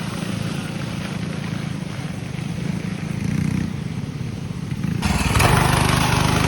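Mini bike engine running steadily. About five seconds in it abruptly turns louder, with more rushing noise.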